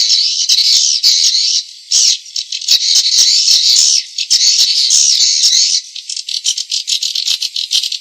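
Recorded swiftlet calls, a lure track for drawing swiftlets into a nest house: dense, rapid, high-pitched twittering with nothing low in it. It breaks off briefly twice, then turns into choppier separate chirps for the last couple of seconds.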